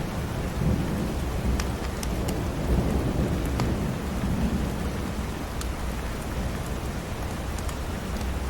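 Steady heavy rain with a low rumble of thunder underneath, and scattered sharp crackles of a wood fire.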